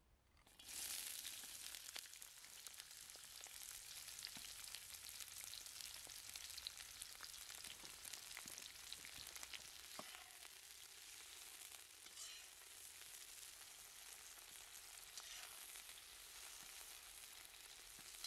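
Sliced red onions frying in hot oil in a wok, sizzling steadily with many small crackles. The sizzle starts suddenly less than a second in, as the onions hit the oil.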